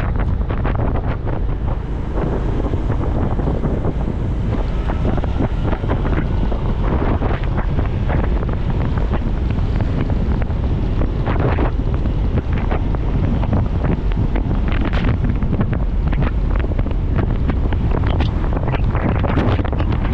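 Heavy wind noise buffeting the microphone of a moving motorcycle: a steady rushing roar, strongest in the bass.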